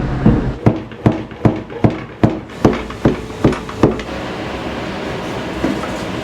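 Kitchen work in an udon shop: a run of sharp, evenly spaced knocks, about two and a half a second, that stops about four seconds in, leaving a steady kitchen hiss.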